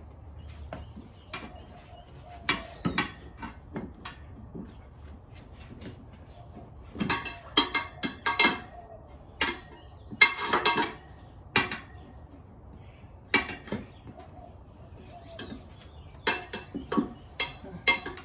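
Steel tire spoons clinking and knocking against a motorcycle wheel rim as a tire is levered off by hand: irregular sharp metal clanks, several in quick clusters.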